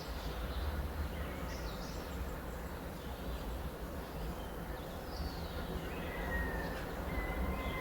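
Birds calling outdoors: a few short chirps, a falling whistle about five seconds in, and a thin steady whistle from about six seconds on, over a steady low background rumble.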